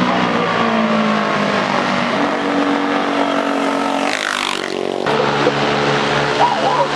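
Vehicle engines running at a street race, their steady pitches overlapping, with one vehicle sweeping past about four seconds in; the sound changes suddenly about a second later.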